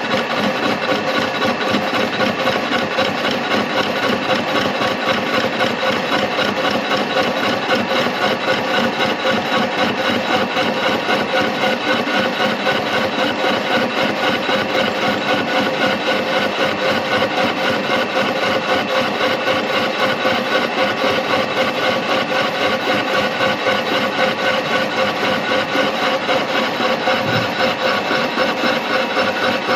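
Universal milling machine milling a metal workpiece: the cutter grinds through the metal with a steady machine tone and an even, rhythmic pulsing.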